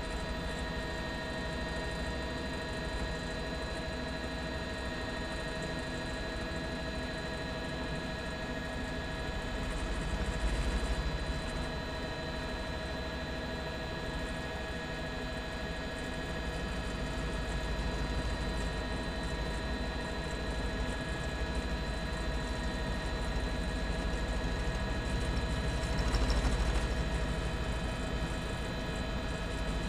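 Helicopter noise heard from inside the cabin: a steady engine and rotor drone with fixed whining tones, swelling slightly twice.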